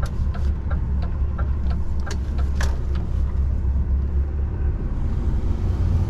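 DAF truck's diesel engine running under way, heard from inside the cab as a steady low rumble, with scattered light clicks and rattles over it.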